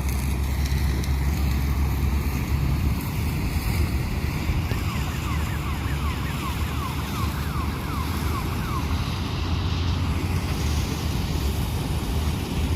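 Combine harvester running: a steady, loud low engine drone with machinery noise. A run of short, falling chirps sounds faintly over it in the middle.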